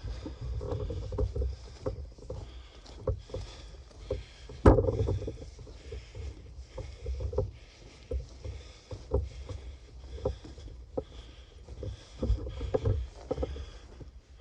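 Footsteps of a person walking along the floor of a disused railway tunnel, an uneven run of thumps and scuffs, with one louder knock a little under five seconds in.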